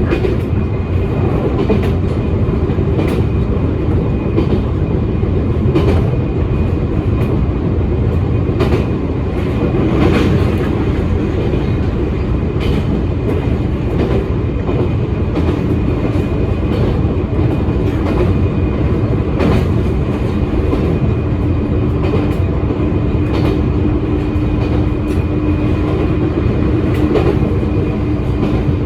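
Electric commuter train running along the track: a steady rolling rumble with irregular clicks of the wheels over rail joints, and a steady hum coming in during the second half.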